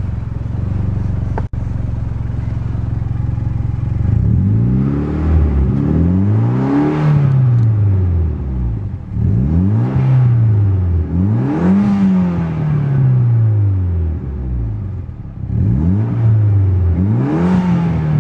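The 2008 Mitsubishi Lancer Evolution GSR's turbocharged 2-litre four-cylinder engine idles steadily, then is revved up three times, about four, ten and sixteen seconds in. Each rise in pitch is followed by a slower fall back.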